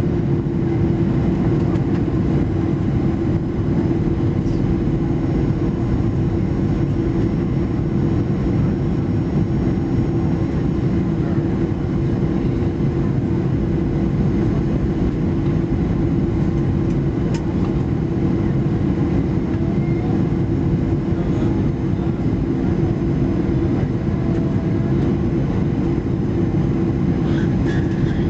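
Steady cabin noise inside a Boeing 737-800 in flight: the engines' drone and the rush of airflow, with a constant low hum running through it.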